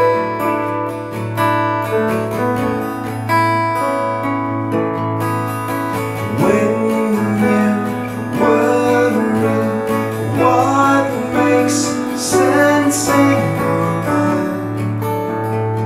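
Acoustic guitar strumming with piano, playing a song's instrumental opening.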